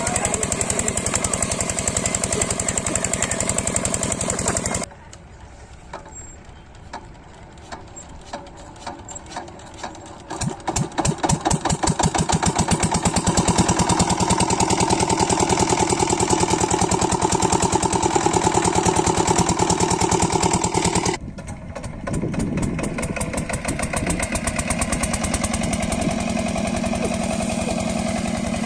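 8hp diesel engine of an irrigation water pump set running with a fast, even beat. About five seconds in the sound drops sharply to a quieter stretch with scattered knocks, then the engine picks up again with quickening regular beats and runs loud, with a brief drop a little after twenty seconds before it runs on.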